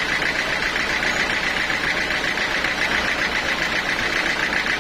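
Engine-driven sawmill machinery running steadily, with a fast, even pulse in its sound.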